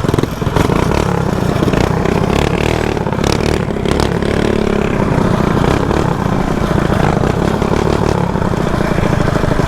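Small single-cylinder mini bike engine running at speed under throttle, with wind buffeting the microphone.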